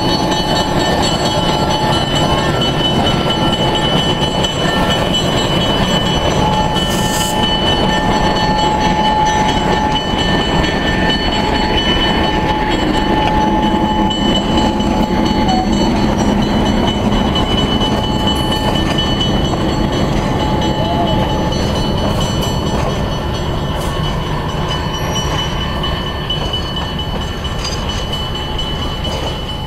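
ALCO diesel locomotive 106 running as it pulls a passenger coach past, a steady rumble and rolling noise of the train with a few held tones on top. The sound eases off over the last several seconds as the train moves away.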